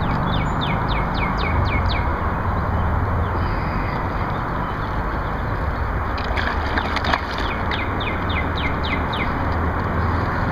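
A songbird sings two runs of quick down-slurred whistled notes, about five a second, one at the start and another about six seconds in. Under it runs a steady rush of outdoor noise.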